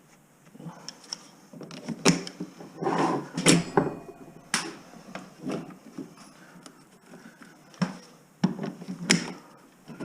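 Irregular knocks, clatter and scraping as electrical wire is pulled out of bare wall framing, with about half a dozen sharp knocks spread through.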